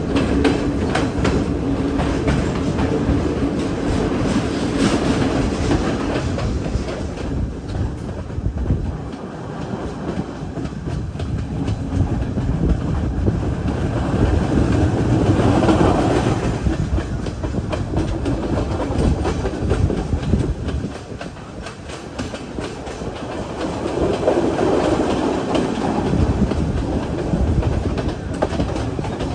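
Passenger train running along the track: a continuous rumble with wheels clicking over rail joints. The sound swells louder and fades back twice.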